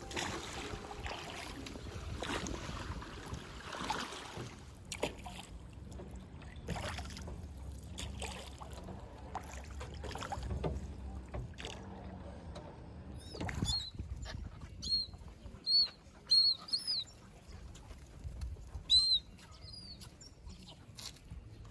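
A boat moving on open water, with a steady low rumble and water noise. From a little past the middle a bird calls repeatedly in short, high, curved chirps, the loudest sounds here.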